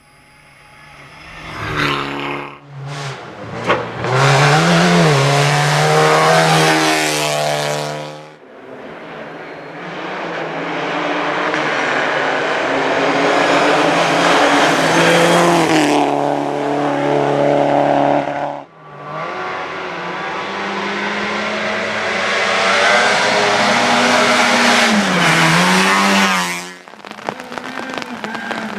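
Rally cars driven flat out, engines revving hard and pitch climbing and dropping through gear changes as they approach and pass. The sound comes in four separate runs, each cut off abruptly.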